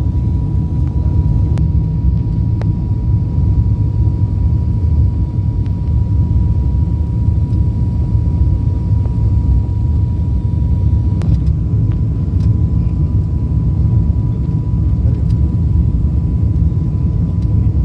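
Cabin noise inside an ATR 72 turboprop airliner: a steady low rumble with a thin, even whine held above it.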